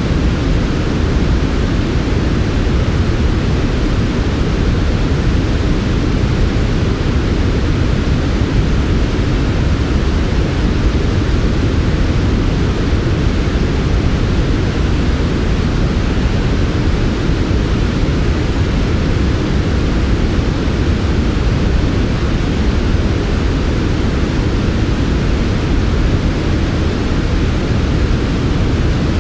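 Steady, unchanging synthetic noise played as a sleep sound, a smooth hiss that is heaviest in the low end and softer in the highs.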